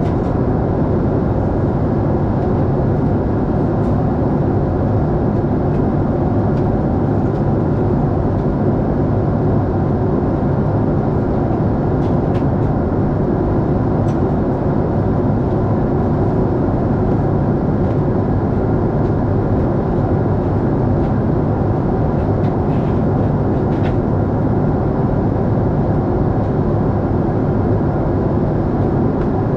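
Steady engine and airflow noise heard from inside a Lufthansa Boeing 747-8 airliner, with a few faint clicks.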